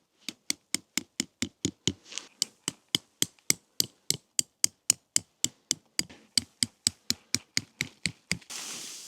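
A steady, evenly spaced run of sharp knocks or taps, about four a second, with silence between them. Near the end they give way to a steady hiss.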